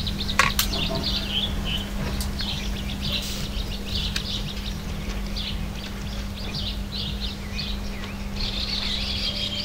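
Small songbirds chirping and twittering continuously in a garden, over a low rumble of wind and a faint steady hum. A couple of sharp clicks in the first second.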